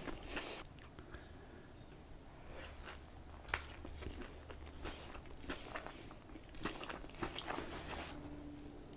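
Close-miked eating sounds: bites and chewing of crispy fried chicken, with irregular small crunches and moist clicks.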